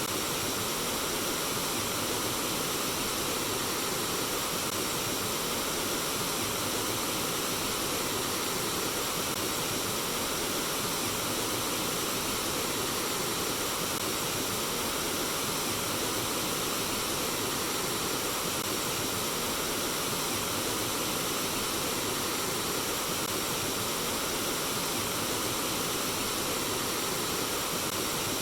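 Flowing water running in a steady, unbroken rush.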